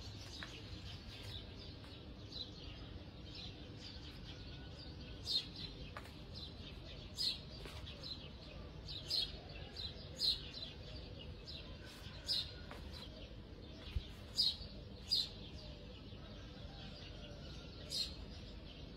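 A bird chirping: about ten short, high single chirps, irregularly spaced a second or two apart, over low background noise.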